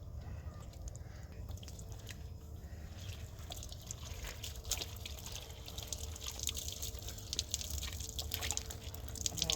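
Water dripping and splashing in many small, irregular splashes over a steady low rumble.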